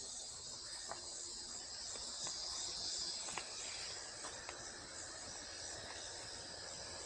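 A steady, high-pitched chorus of insects droning in the summer heat, with a few faint ticks scattered through it.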